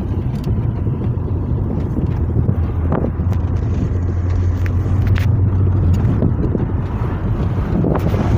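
Car driving: steady low rumble of engine and road noise, with a few light knocks and clicks.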